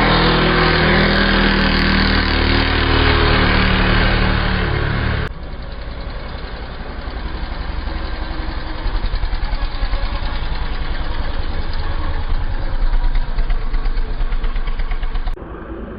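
Dirt bike engine running: a loud, steady engine note for about five seconds, then an abrupt cut to a quieter, pulsing engine sound that builds up, and another sudden drop near the end.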